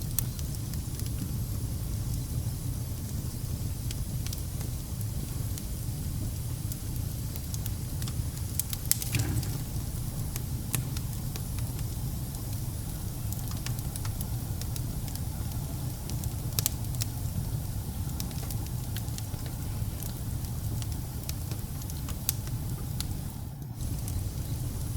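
Wood fire burning in a fireplace: a steady low rumble of the flames with scattered crackles and pops from the burning logs, a few louder pops together about nine seconds in.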